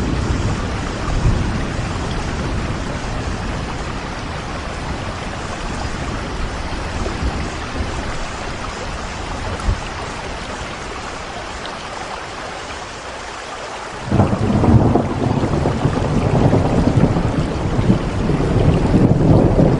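Steady rain with thunder rumbling low beneath it. About two-thirds of the way through, a louder, deeper rumble sets in suddenly and carries on.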